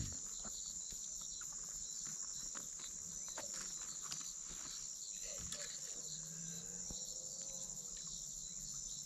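Steady, high-pitched chorus of insects chirring in the forest, unbroken throughout, with a few faint scattered clicks.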